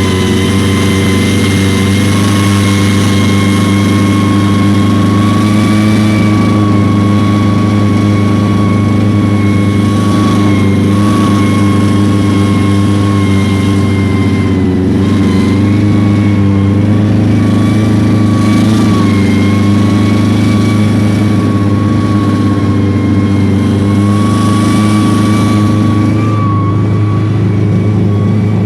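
Engine running steadily at a nearly constant pitch, wavering only slightly up and down.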